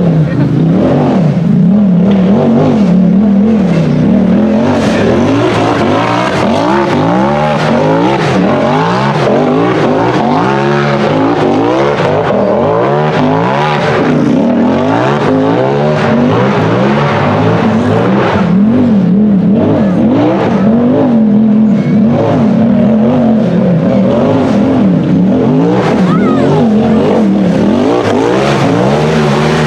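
Side-by-side (UTV) buggy engine revving hard. Its pitch rises and falls over and over as the throttle is worked on and off.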